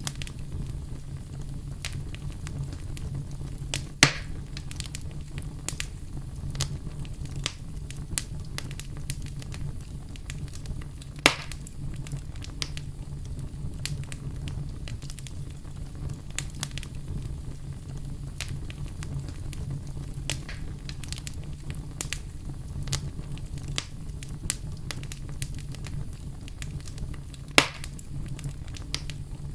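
Wood campfire burning and crackling: a steady low rush of flame under constant small snaps, with three sharp, much louder pops spread across the stretch.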